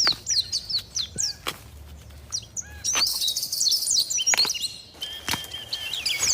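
Small songbirds chirping and tweeting, many quick high notes overlapping, with a dense burst of twittering about three seconds in.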